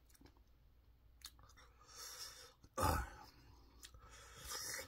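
Quiet mouth sounds of a man eating: faint chewing clicks, with a short sharp breathy sound about three seconds in and a longer breathy sound near the end.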